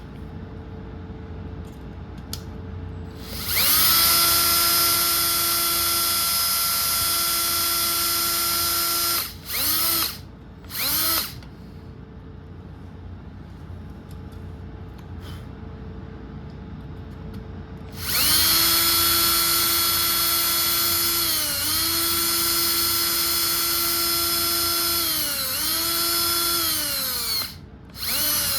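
Small electric drill whining in several runs: a long run, two short blips, then another long run whose pitch sags and recovers a few times as the bit bites, and a last short burst. It is drilling out a rivet that holds a hair dryer's temperature switch.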